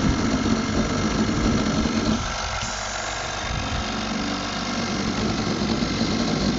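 Oxygen concentrator running: a steady mechanical hum with vibration from its compressor.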